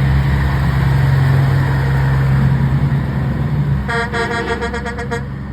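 Semi trucks going by with a deep steady drone, then a truck horn sounding a quick run of short toots that come faster and faster near the end.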